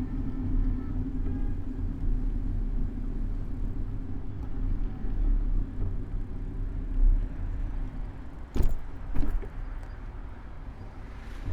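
City road traffic: motor vehicles running with a steady low rumble and hum. Two sharp knocks come about half a second apart, some eight and a half seconds in.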